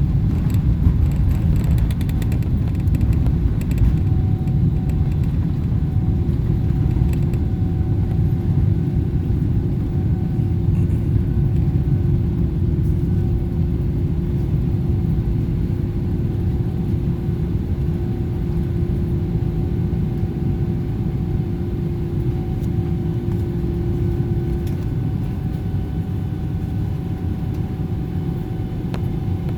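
Steady rumble of a Boeing 777-300ER's GE90 jet engines and airflow heard from inside the passenger cabin, with a faint steady hum over it and a few light rattles in the first few seconds.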